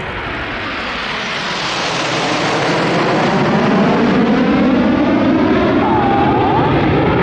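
Jet roar of the Red Arrows' BAE Hawk T1 trainers flying in as a formation. It grows steadily louder over about four seconds, then holds at full strength with a shifting, swirling quality as the jets pass.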